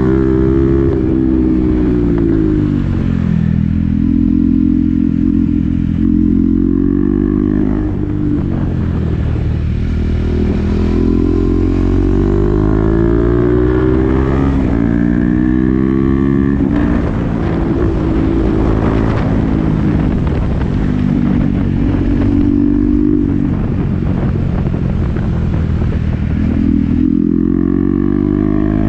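KTM Duke 390's single-cylinder engine through an SC-Project exhaust with the dB killer fitted, riding on the road. Engine pitch climbs and falls again and again as the bike accelerates and slows through the gears.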